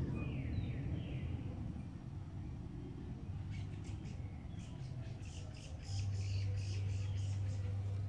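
Small birds chirping: a couple of quick downward-sliding chirps at the start, then a rapid run of short high chirps from about three and a half seconds in. A steady low hum comes in about six seconds in and is the loudest sound from then on.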